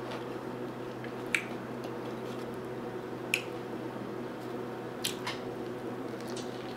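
Close-miked chewing of a burger: a handful of short, sharp, wet mouth clicks and smacks a second or two apart, over a steady low hum.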